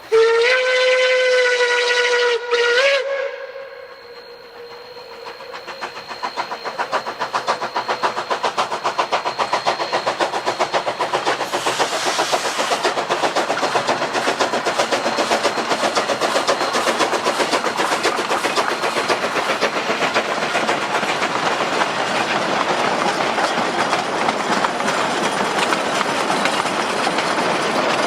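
Steam whistle of K-27 Mikado No. 463, a narrow-gauge 2-8-2 locomotive, blown in a long blast and then a short one. The locomotive then works hard with quick, even exhaust chuffs, which grow louder for several seconds and then run steadily.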